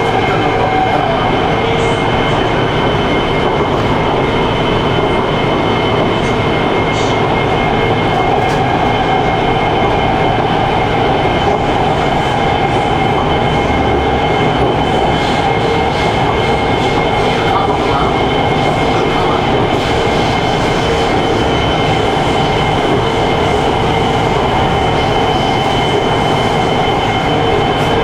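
Wuxi Metro Line 1 subway train running between stations in a tunnel: a steady rumble of wheels on rail with constant whining tones over it.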